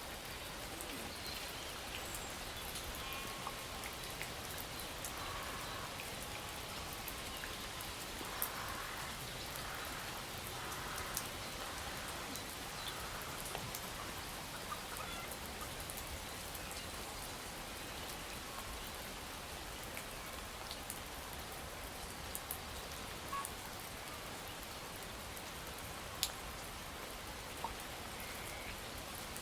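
Steady rain: an even hiss with scattered sharp drips and ticks.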